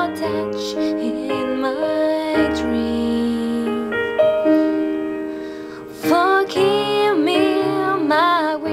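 A woman singing a slow ballad over piano accompaniment, her voice entering in phrases with vibrato over held piano chords.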